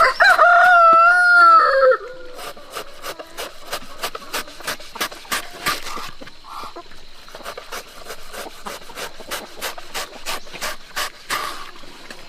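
A rooster crowing once, loud and about two seconds long, at the start. After it comes a run of sharp taps, about three a second.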